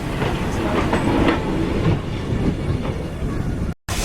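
A train running along the heritage railway's track: a steady low rumble with scattered faint clicks, which breaks off for a moment near the end.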